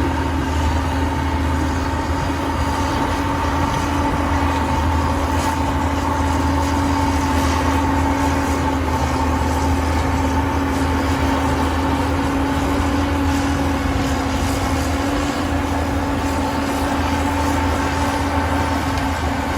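Heavy earthmoving machine's diesel engine running steadily with a deep rumble and a constant droning tone.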